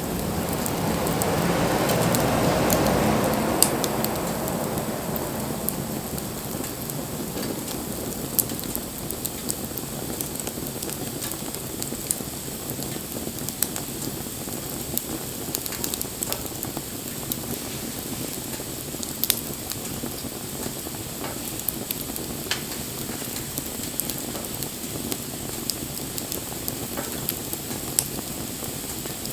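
Wood fire burning with a steady hiss and crackle, sharp pops scattered throughout. A louder rushing swell builds over the first few seconds and fades by about six seconds in.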